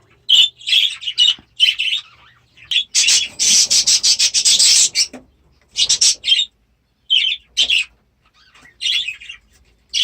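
Young budgerigars chattering and squawking in short bursts, with a longer spell of chatter in the middle.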